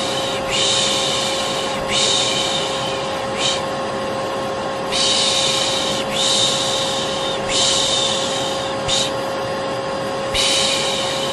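Vacuum cleaner motor running steadily with a constant whine. Over it, a person makes long 'shhh' shushing sounds to lull a baby, in sets of two long shushes followed by a short one, with brief gaps between sets.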